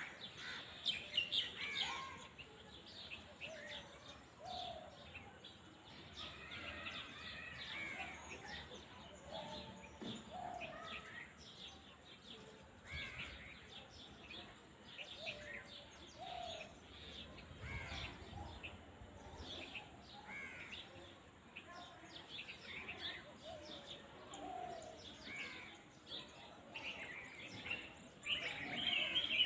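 Outdoor birdsong: many birds chirping and calling at once, short high chirps overlapping with lower call notes, growing louder near the end.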